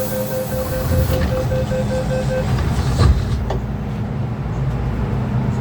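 MTR M-Train door-closing warning: a rapid, pulsing electronic beep sounds in the first couple of seconds over a burst of hiss, then the doors shut with a thump about three seconds in, over the train's steady rumble at the platform.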